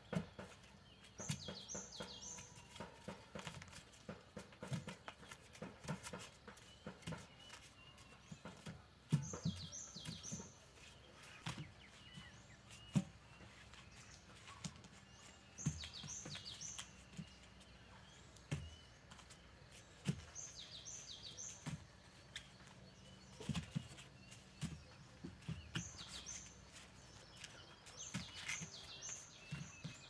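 A songbird repeating a short phrase of three quick high descending notes every five seconds or so. Scattered soft knocks and rustles run underneath.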